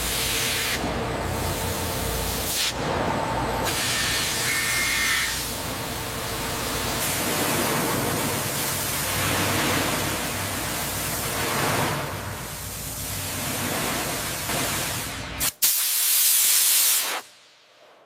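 Steady hissing, spray-like industrial noise with a low rumble under it. Near the end it breaks off, comes back louder for a second or so, then fades out.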